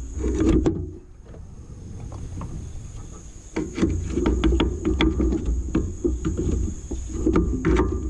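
Hand-tool work on a car engine: irregular metal clicks and knocks over a low rumble, busy for about the first second, quieter for a few seconds, then busy again from a little past the middle.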